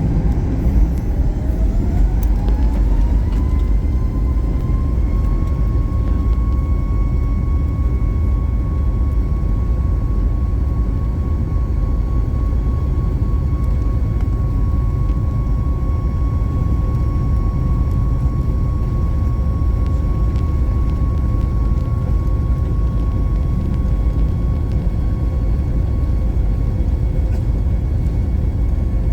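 Boeing 737 MAX's CFM LEAP-1B engines spooling up to takeoff thrust, heard from inside the cabin: a whine rising over the first four seconds or so, then holding steady over a loud, constant low rumble of the takeoff roll.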